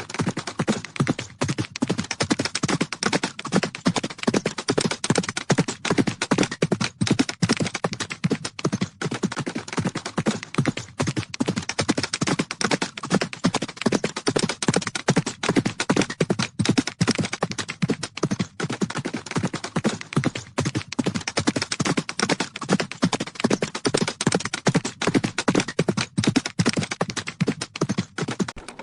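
Horses' hooves galloping: rapid, dense hoofbeats without a break.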